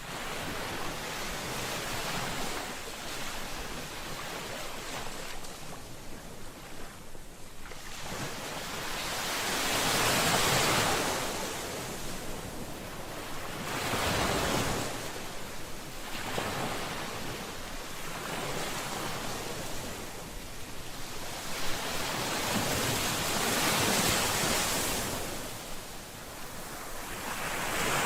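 Ocean waves: a steady rushing surf that swells and fades in slow surges every several seconds, loudest about ten seconds in, again around fourteen seconds, and near twenty-four seconds.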